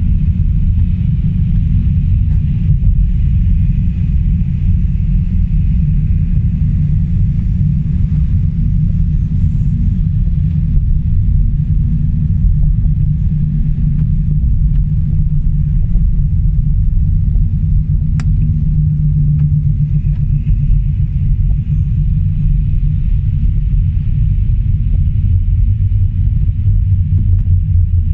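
Car driving at steady speed: a continuous low rumble of engine and tyres on the road.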